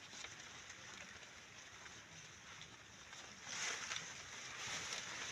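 Faint rustling and scraping of hand work among maize plants, as soil is gathered around the stalks with a slasher; it swells a little louder about three and a half seconds in.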